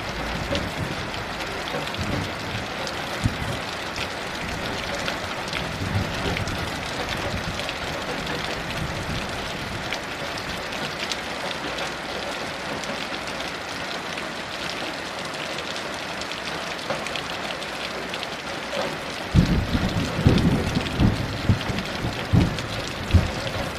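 Heavy rain falling steadily. Near the end a low, uneven rumble of distant thunder sets in beneath it.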